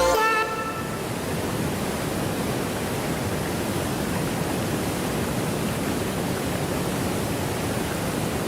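Steady, even rushing of water, as from a waterfall or fast stream.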